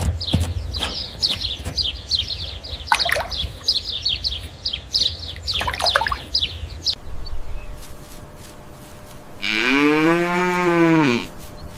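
A cow mooing once near the end, one long call that rises and then falls in pitch. Before it, small birds chirp rapidly over a low rumble.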